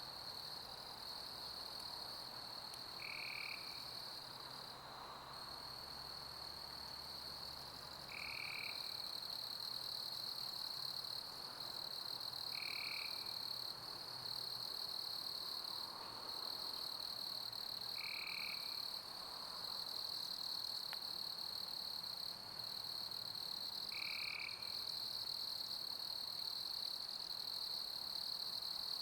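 A steady chorus of chirping summer crickets, high-pitched and unbroken, over a soft even hiss of pink noise. A short, lower call cuts in five times, every five seconds or so.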